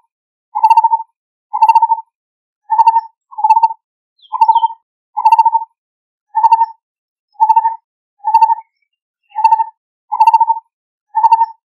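Lineated barbet calling: a long, regular series of short, low notes, about one a second.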